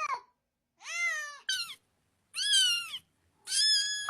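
A domestic cat meowing four times, separated by short silent gaps, each meow rising and then falling in pitch.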